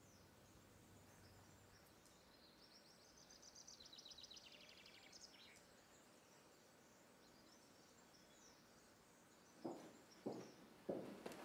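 Near silence, room tone, with a faint bird trill about three seconds in: a quick run of notes falling in pitch. Three soft knocks come near the end.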